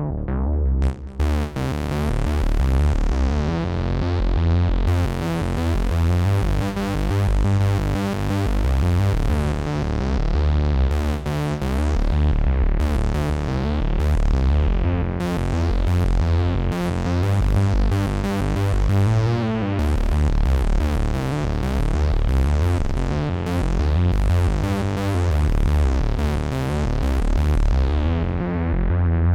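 Moog Messenger analog monosynth playing a continuous line of bass-heavy notes, its tone brightening and darkening from note to note.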